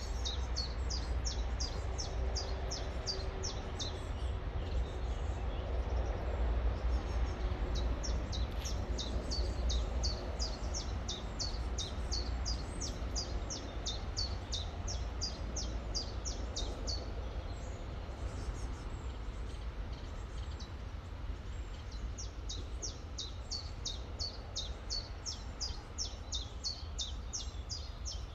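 A songbird repeating a short, high, downward-slurred chirp about three times a second in long runs, pausing for a few seconds after the middle before starting again. Beneath it the river runs as a steady rushing noise with a deep rumble.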